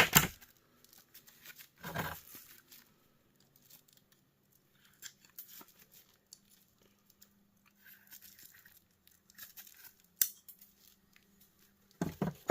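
Scattered clicks, snaps and rustling as small plastic and metal parts of an electric heater are handled and worked loose with hand tools, with a louder burst about two seconds in, a sharp click about ten seconds in and another burst near the end.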